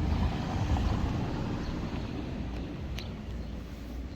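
Wind buffeting the microphone: an uneven low rumble, with a faint click about three seconds in.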